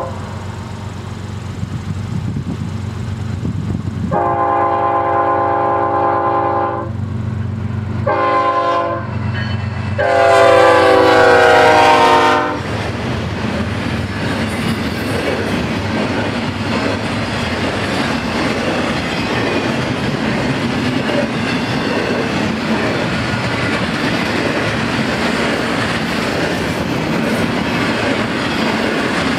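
Freight train's diesel locomotives sounding a multi-note air horn: a long blast, a short one, then a long one whose pitch drops as the locomotives pass. The horn gives way to the steady rumble and clickety-clack of double-stack intermodal well cars rolling by.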